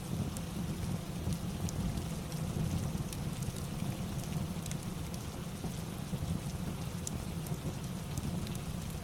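Steady rain ambience with a low, even rumble underneath, dotted with sparse sharp crackles from a fireplace.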